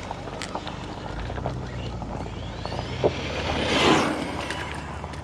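Brushless electric motor of an RC truck (3930kv 3650-size motor) whining as the truck drives past, its pitch rising and falling, with a swell of tyre and ground noise peaking about four seconds in and a sharp click just before.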